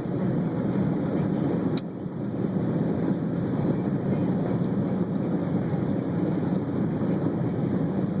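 Steady road and wind noise inside a car cruising at highway speed with a window partly down, with one sharp click about two seconds in.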